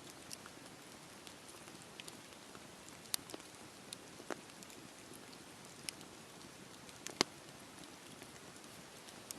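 Campfire burning with a soft steady hiss and scattered sharp crackles and pops, the loudest about three, four and seven seconds in.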